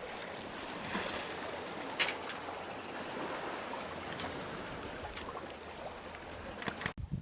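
Sea water rushing and splashing along the hull of a sailboat under way, a steady hiss with a few brief knocks. It cuts off suddenly near the end.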